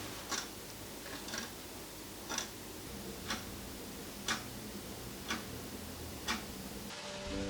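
A clock ticking, one sharp tick a second, over a faint room hiss. Soft music comes in near the end.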